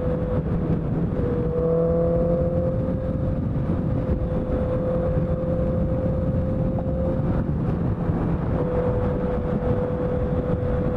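Honda CBR650F inline-four motorcycle running at a steady engine speed under way, mixed with heavy wind and road rumble. A steady high whine sits over the engine note and fades out briefly twice.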